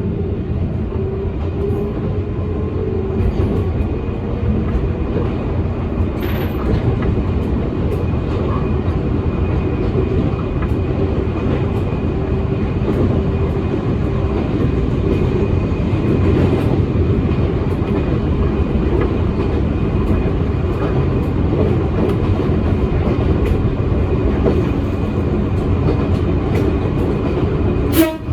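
Electric commuter train running along the line, heard from inside: a steady rumble of wheels on rail with a faint steady whine and scattered light clicks. A sharp click sounds near the end.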